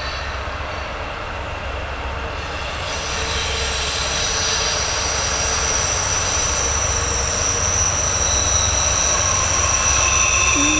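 Norfolk Southern double-stack freight train led by three GE C40-9W diesel locomotives, approaching and growing steadily louder. Its wheels squeal on the curve as steady high-pitched tones that set in about three seconds in, over a low rumble.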